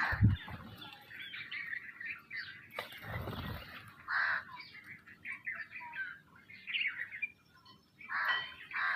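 Sparrows chirping in a busy flock, many short overlapping chirps. A brief low thump sounds just after the start, and a short low rumble about three seconds in.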